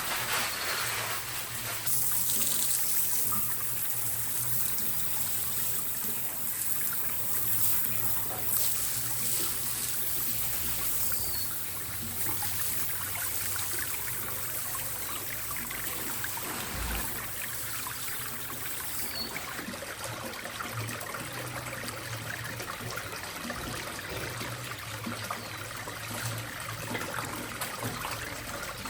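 Water running in a steady trickle.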